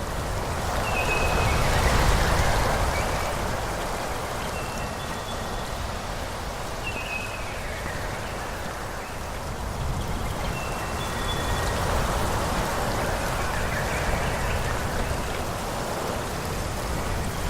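Wind rushing through forest trees in swells, louder about two seconds in and again near the middle, with some low wind rumble. A bird repeats short, high chirps every couple of seconds.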